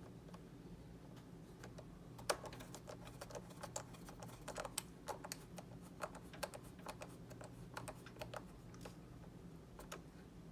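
Irregular light clicks and taps from driving tiny screws into plastic model-kit parts with a small precision screwdriver, over a faint steady low hum.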